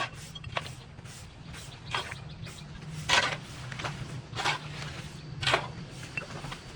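Overgrown grass and weeds being cleared by hand: short rasping, swishing strokes roughly once a second, over a steady low hum.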